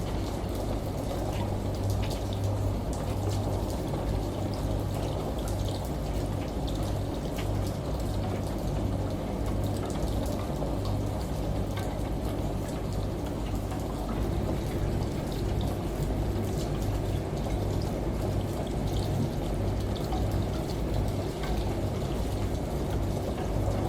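Steady ambient blend of running water and rain with scattered drips, over a constant low hum from a washing machine.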